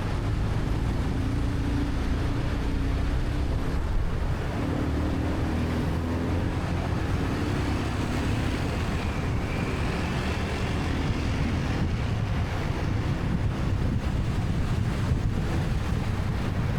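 Motorcycle running along in traffic, its engine note showing in the first half, under steady wind noise on the microphone.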